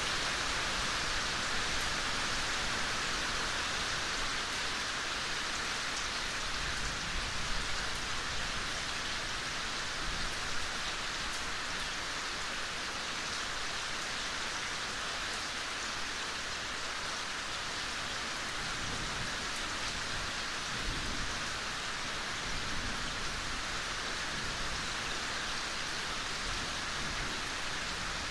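Steady gentle rain falling, with scattered individual drops ticking now and then.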